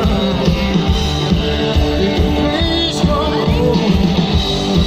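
Live rock band playing, with electric guitar, bass and drums and a singer's voice, heard loud and amplified through a PA.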